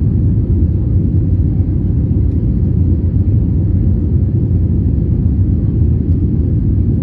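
Steady low rumble of an Airbus A320neo's CFM LEAP-1A engines and airflow, heard inside the passenger cabin.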